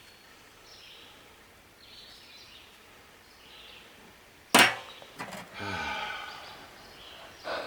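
A sharp metallic clank about four and a half seconds in, with a short ringing rattle after it and a smaller knock near the end, from metal engine-mount parts being handled.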